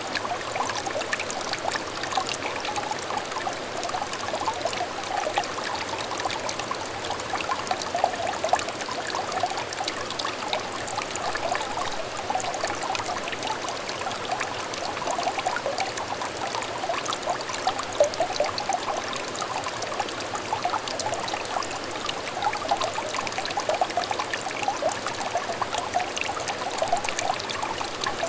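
A small stream of water trickling and splashing steadily, a dense patter of small drips and splashes in a fast flow.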